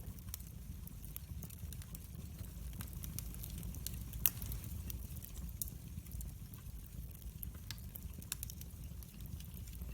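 Wood fire burning in a fireplace: a steady low rumble of flames with frequent small crackles and pops, one sharper pop about four seconds in.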